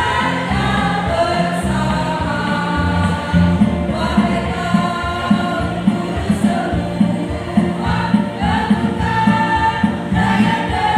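A choir singing a song, several voices together, with no break.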